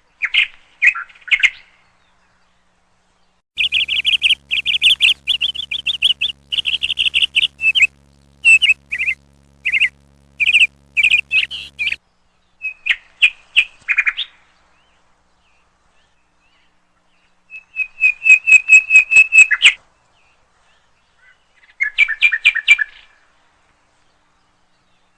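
Small bird chirping and twittering in bouts of quick high notes with pauses between, the longest bout lasting several seconds in the middle and a fast run of repeated chirps about two-thirds through.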